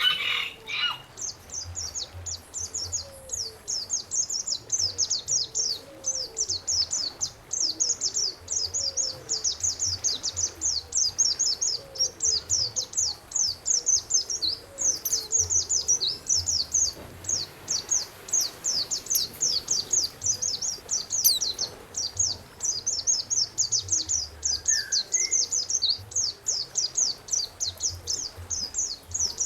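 A songbird singing a fast, unbroken stream of high, sharp chirps, many per second, with one louder, lower call right at the start.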